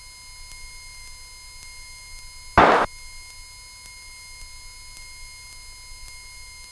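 Cessna 172 cockpit sound heard through the headset intercom: a low engine rumble at idle with steady electrical whine tones, and one short, loud rush of noise about two and a half seconds in.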